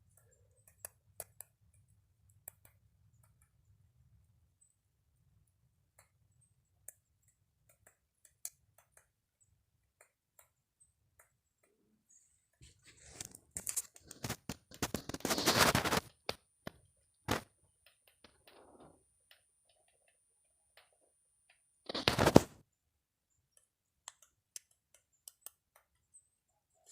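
Woodpecker pecking at wood while foraging for insects: scattered single taps, then a fast run of loud taps lasting a few seconds about halfway through, and a short burst of taps near the end.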